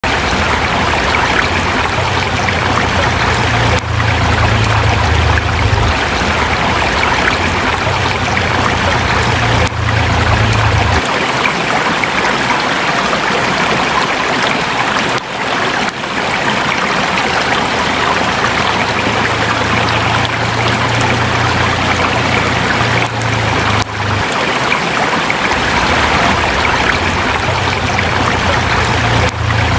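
Forest river flowing over rocks: a steady rush of water, with a low rumble that comes and goes beneath it.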